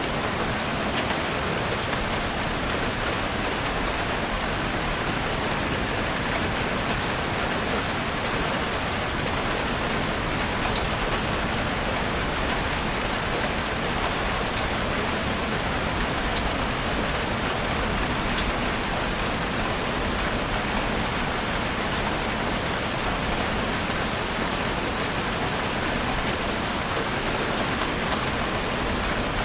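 Heavy rain drumming steadily on a chalet roof, a dense, even patter with fine scattered drop ticks.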